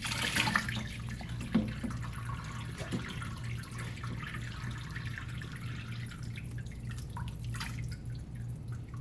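Water dripping and trickling into a sink or tub after a kitten's bath rinse, thinning out over the first several seconds, over a steady low hum.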